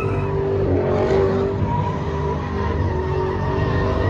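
Car engine held at high revs with tyres squealing, as in a burnout or skid.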